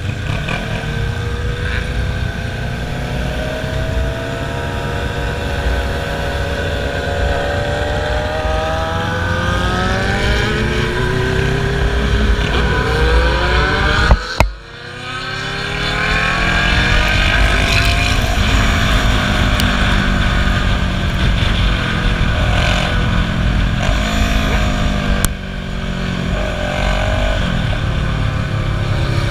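Several motorcycle engines running together, their pitch rising and falling as they accelerate and ease off, over a low rumble of wind on the microphone. The sound breaks off for a moment about halfway through and changes suddenly again near the end.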